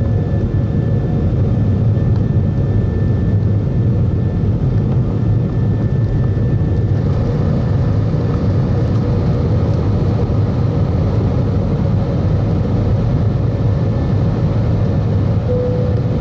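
Steady low drone of a vehicle in motion, with a faint steady whine over it.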